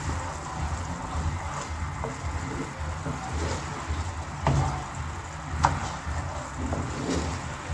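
Honey garlic butter sauce simmering in a pan over a low rumble, with a utensil knocking sharply against the pan twice around the middle.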